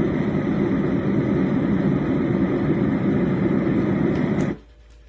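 Yogasleep Duet sound machine playing a steady, low rumbling noise through its small speaker, with a hiss over it. It cuts off suddenly about four and a half seconds in.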